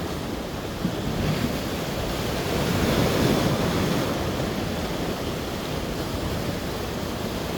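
Sea waves washing onto the shore, swelling a little louder about three seconds in, with wind rumbling on the microphone.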